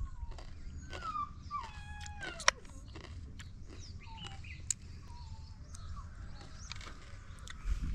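A string of short animal calls, each falling in pitch, mostly in the first few seconds, over a steady low rumble. There are a couple of sharp clicks, one about two and a half seconds in.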